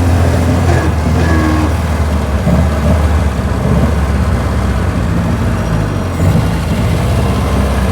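1924 Austin Seven's small four-cylinder engine and road noise heard from inside the car while driving, a steady low drone.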